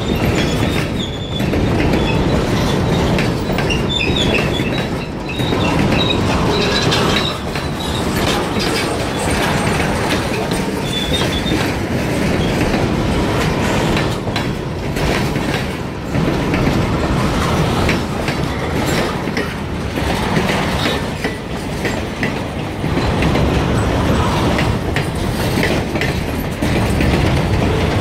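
Freight train's boxcars rolling past at close range, their steel wheels clacking steadily over the rail joints. A faint high wheel squeal comes and goes in the first few seconds.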